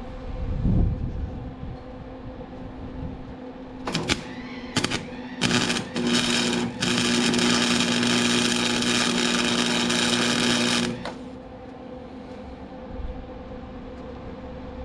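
A handheld power tool's motor is triggered in three short bursts, then run steadily for about five seconds before stopping suddenly.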